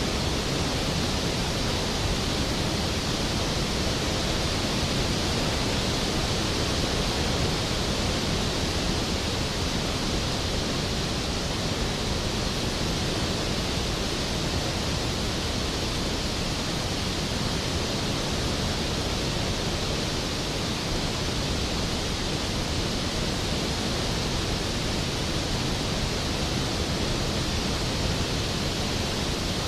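Skógafoss waterfall crashing steadily: an even, unbroken rush of falling water.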